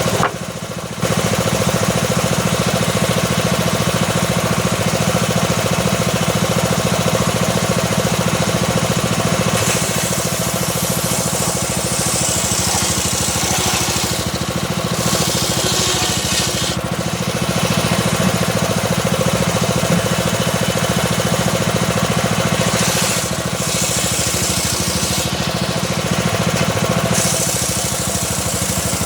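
Homemade engine-driven circular saw running steadily while ripping a small teak log. The engine drones throughout, and a high hiss of the blade cutting the wood swells in several stretches.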